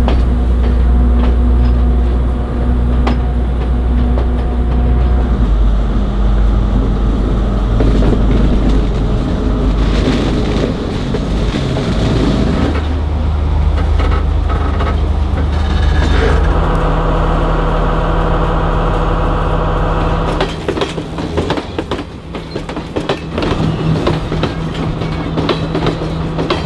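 Diesel train running: a steady low engine drone and rumble of the moving train. From about 20 seconds in, the drone drops away and a passenger train passing close by takes over with rapid clacking of its wheels over the rail joints.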